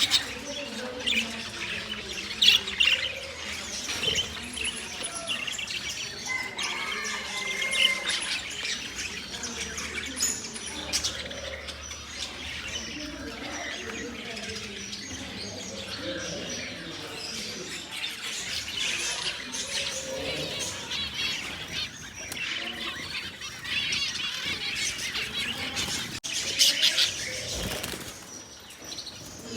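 Many caged parrots chirping and calling over one another in a busy, overlapping chorus of short high calls, with a few louder calls standing out.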